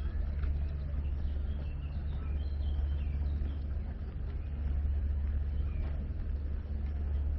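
Outdoor street ambience dominated by a steady low engine and traffic hum, with a few faint high chirps over it.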